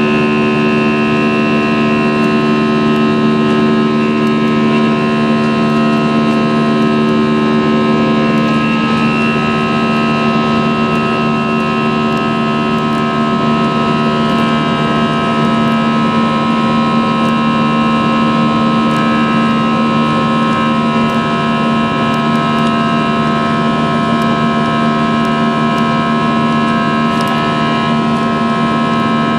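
Airbus A320 jet engines heard inside the cabin in flight: a loud, steady drone with several held tones over a rushing noise, a couple of the lower tones dropping away about eight seconds in.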